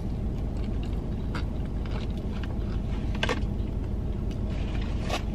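Chewing a bite of crispy fried chicken sandwich, with a few soft crunches, over a steady low rumble inside a car cabin.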